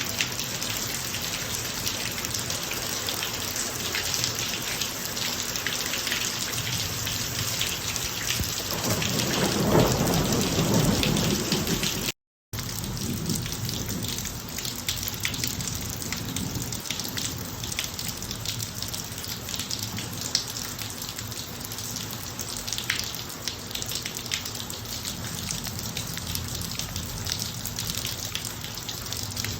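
Steady rain falling on a driveway, with a low rumble of thunder swelling about nine seconds in and fading after a few seconds. The sound cuts out completely for a moment just after twelve seconds, then the rain carries on.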